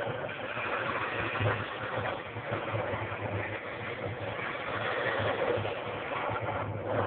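Wallpaper steamer running: a steady hiss of steam over a low, pulsing hum.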